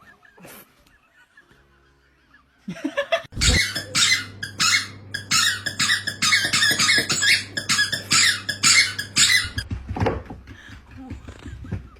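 A rapid run of loud, high squeaks, about two or three a second, starting a few seconds in and stopping a couple of seconds before the end, over a steady low hum.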